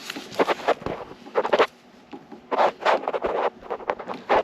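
Several short scrapes and scratches in an irregular run, as of hands handling small hardware.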